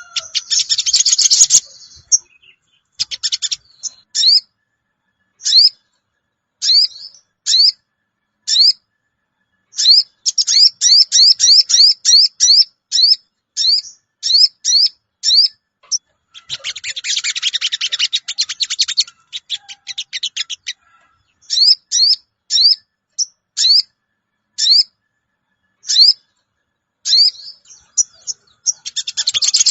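Sogon bird lure call: short, sharp 'cuwit' notes repeated over and over, sometimes spaced and sometimes in quick runs, broken by harsh, dense chattering bursts near the start, in the middle and at the end.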